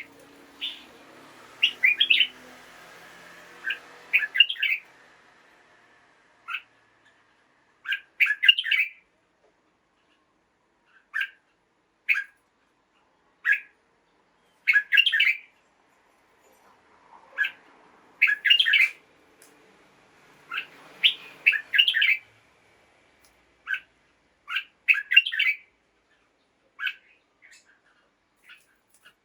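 Red-whiskered bulbul singing: about twenty short, bright chirping phrases, some single notes and some quick runs, with pauses of up to a couple of seconds between them.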